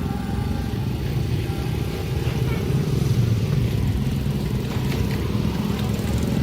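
A passing train's steady low rumble, a little louder about three seconds in.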